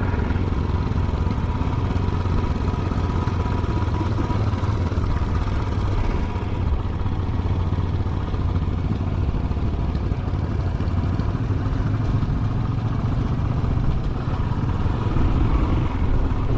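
Royal Enfield Classic 500's single-cylinder engine running steadily under way, a constant low rumble with no change in pace.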